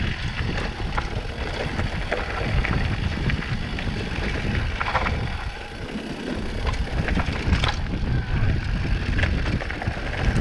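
Mountain bike riding down a dirt trail: steady wind rush on the microphone, with scattered clicks and knocks from the bike over the ground.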